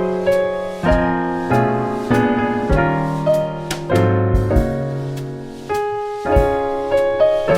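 Instrumental background music on piano: chords and notes are struck about once or twice a second and fade as they ring.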